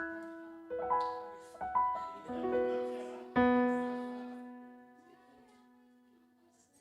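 Piano playing a few notes and chords, then a full chord struck about three and a half seconds in that is left to ring and fade away.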